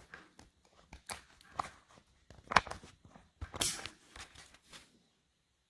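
Irregular clicks, knocks and short rustles of close handling, such as tapping at and moving a device. The sound cuts off abruptly about five seconds in.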